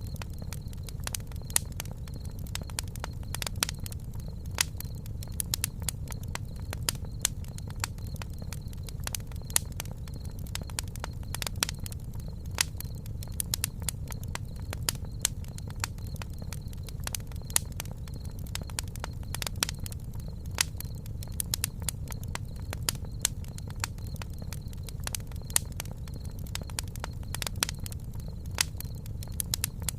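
Campfire crackling: frequent irregular pops and snaps, some much sharper than the rest, over a steady low rumble of the burning wood.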